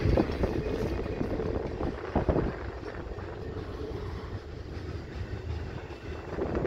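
Freight train's covered hopper cars rolling on the rails: a steady low rumble with a few sharp knocks, one group about two seconds in, growing gradually quieter.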